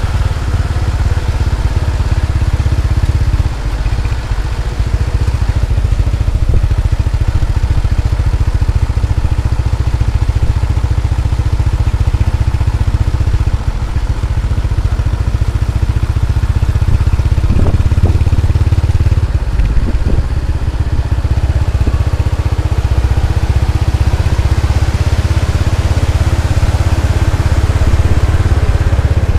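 Truck engine running steadily with a deep, constant rumble.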